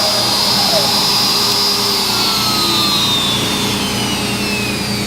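CNC router spindle whining at a steady high pitch, then spinning down with a falling whine from about two seconds in, over a steady low machine hum.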